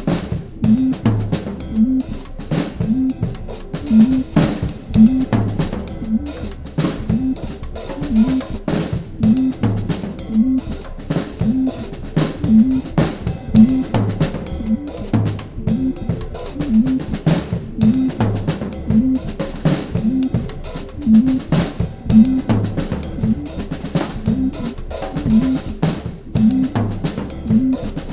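Drum kit playing a dense, steady rhythmic pattern of many quick strokes over a repeating low pitched figure.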